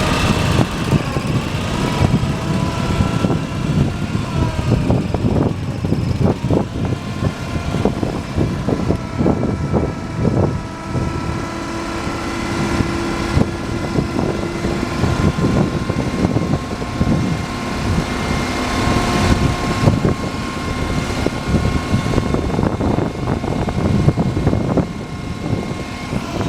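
Engine of a 1985 International heavy truck running steadily, with steady whining tones above it and a run of irregular knocks and clunks in the middle.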